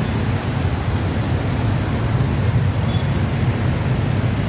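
Heavy rain falling steadily: a dense, even hiss with a strong low rumble and no separate events.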